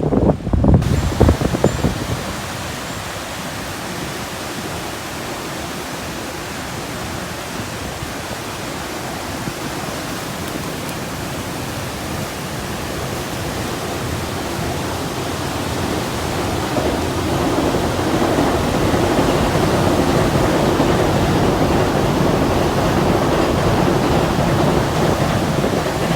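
Steady rushing roar of a river swollen with floodwater after a typhoon, with wind buffeting the microphone in the first couple of seconds. The roar grows louder from about halfway.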